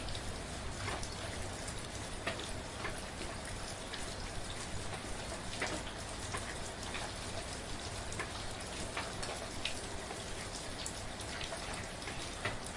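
Steady, gentle rain falling, with individual drops landing close by every second or so.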